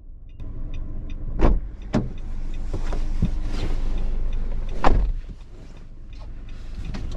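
Several sharp, dull thumps, the loudest about 1.5 and 5 seconds in, over a steady rushing noise that dies down after about five seconds.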